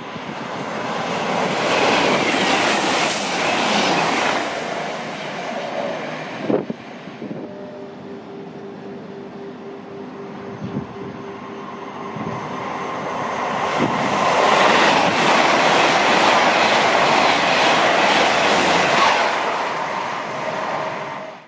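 Passenger train passing through the station at speed on the main line: a loud rush of wheels on rail a couple of seconds in that dies down, a steady tone for a few seconds midway, then a second long loud rush near the end.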